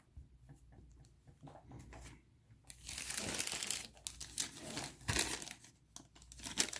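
A plastic bag of miniature parts being handled: faint small clicks at first, then bursts of crinkling and rustling from about three seconds in.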